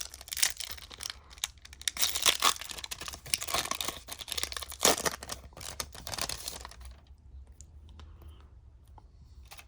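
Trading card pack wrapper being torn open and crinkled by hand, a dense irregular crackle that dies down about seven seconds in, leaving faint handling sounds.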